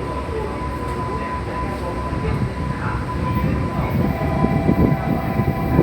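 A train rumbling along the rails at a station platform, with a steady high whine throughout. About four seconds in, more steady tones join and the rumble grows louder as the train's motors and wheels pick up.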